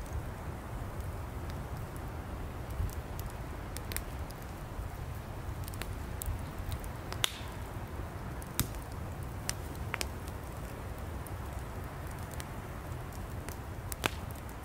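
Wood campfire burning: firewood crackling with scattered sharp pops and snaps over a steady low rumble, the loudest pops about seven seconds in and near the end.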